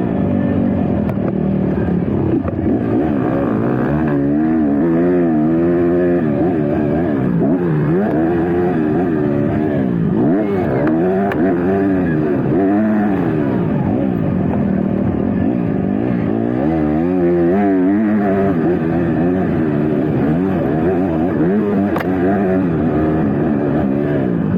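Motocross bike engines revving, their pitch rising and falling over and over as the riders accelerate, shift and back off; at times several bikes are heard at once.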